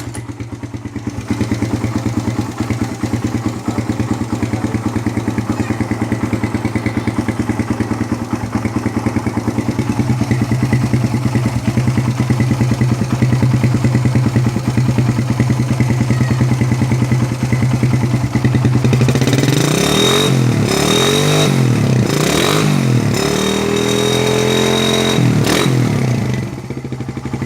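Motorcycle engine running through a Thai-style CBU aftermarket exhaust with a one-hole, single-baffle silencer. It idles steadily, then is blipped up and down three times about two-thirds of the way in, held at higher revs for a couple of seconds, and dropped back to idle.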